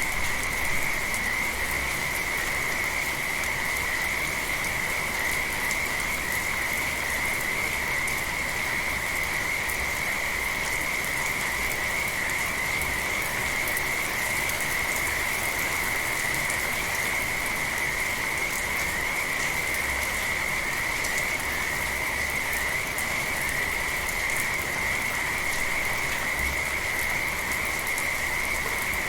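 A dense chorus of frogs calling in a continuous high-pitched trill over steady light rain.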